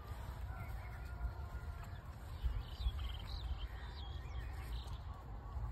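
A few faint, short bird chirps between about two and four seconds in, over a low steady rumble.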